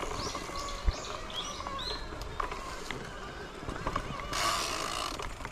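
Small birds chirping: a quick run of short, high chirps in the first two seconds. About four seconds in, a brief rush of noise follows.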